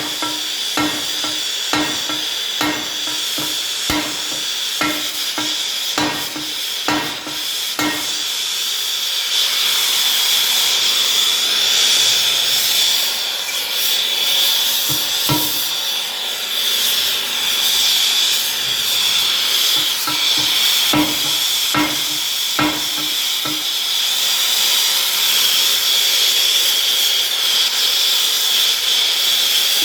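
Hammer blows on a bent steel wheel rim, about two a second, each with a short metallic ring, in two runs, over a steady hiss.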